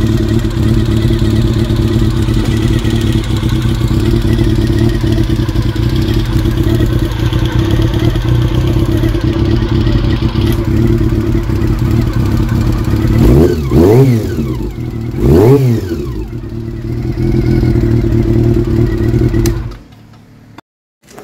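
Honda CB400 motorcycle engine idling steadily, blipped twice about two-thirds of the way through with quick rises and falls in pitch, then shut off near the end.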